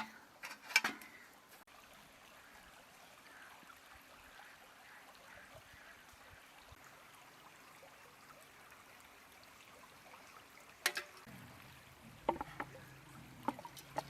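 Faint steady rushing of a flowing river, broken by a sharp knock about a second in and a few more knocks and clicks near the end. A low steady hum comes in about eleven seconds in.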